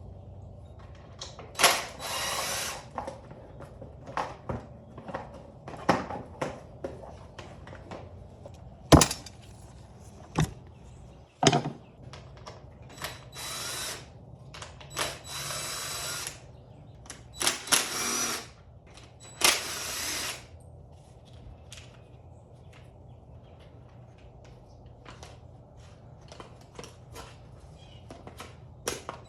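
A handheld power drill-driver run in about five short bursts of a second or two each. Between the bursts come clicks and knocks of tools and parts being handled; a sharp knock about nine seconds in is the loudest.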